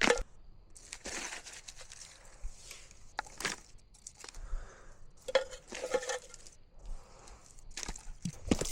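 Irregular crunching and crinkling: a series of separate dry crunches and clicks about a second or so apart.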